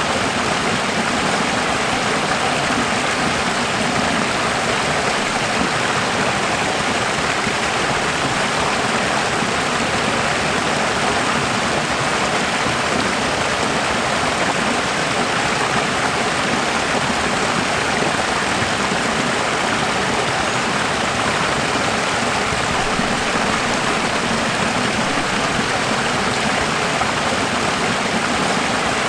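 Running water: a steady, even rush that does not change in level.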